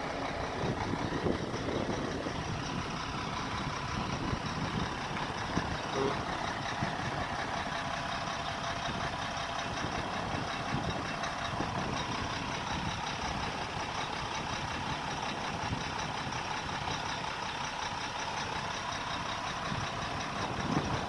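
Heavy truck engine idling steadily, with a faint steady whine above it.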